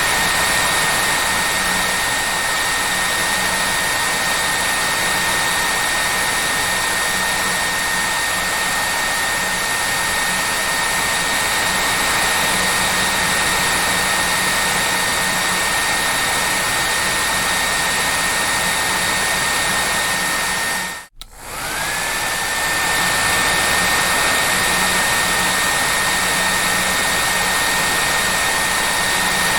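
Electric hair dryer running steadily: a rush of blown air with a high, steady motor whine. About twenty seconds in it cuts out for an instant, and when it comes back the whine climbs back up to pitch.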